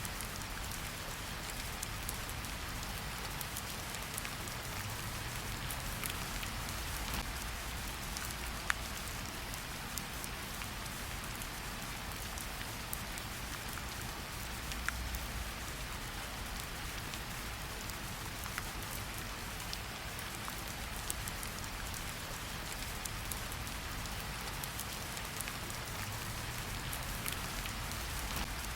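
Steady rain falling in a forest: an even hiss with many scattered drop ticks, a few of them sharper, over a low rumble.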